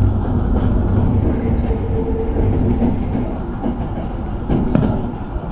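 Hanshin Main Line electric train running, heard from inside the passenger car: a steady low rumble of wheels on rail with a faint steady hum, and a sharp click or two near the end.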